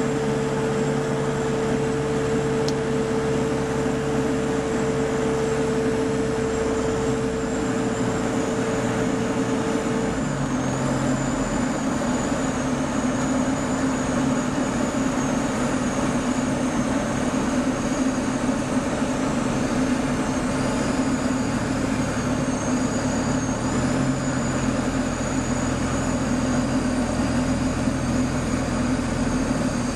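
Light aircraft engine and propeller running steadily, heard from inside the cockpit. A single steady tone sounds over it for the first ten seconds, then stops.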